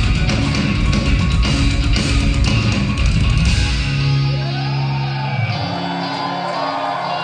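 Live instrumental progressive metal: eight-string electric guitars and drums playing a dense, heavy passage. About four seconds in, the drums and low end drop away, leaving sustained guitar notes ringing.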